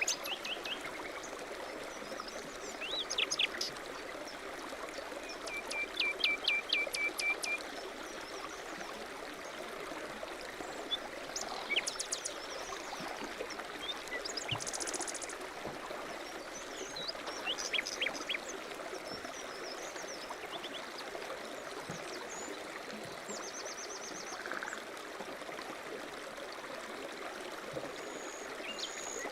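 A stream running steadily, with small birds calling over it: scattered chirps, a rapid trill about six seconds in, and a buzzy high call around fourteen seconds in.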